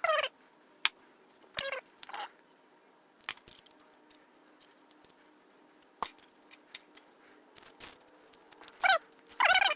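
An animal calling: a few short calls with a wavering pitch near the start and a longer run of calls near the end, with a few sharp clicks or knocks in between.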